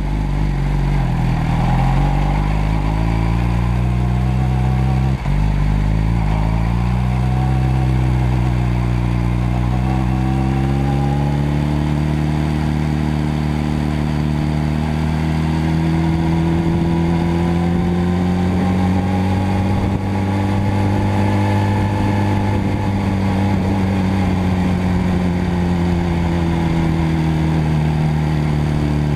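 Motorcycle engine running under way, its pitch rising and falling slowly with the throttle, with a sharp click about five seconds in.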